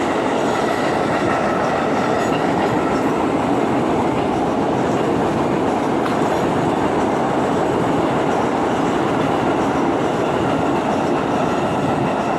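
A train passing close by at a station, its wheels running on the rails in a loud, steady stream of noise with a few faint steady tones above it.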